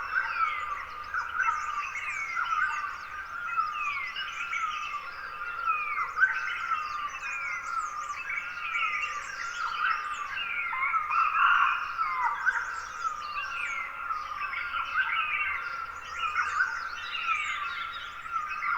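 Dawn chorus of many Himalayan wild forest birds chirping and whistling over one another, full of short, quickly falling notes, briefly louder about halfway through.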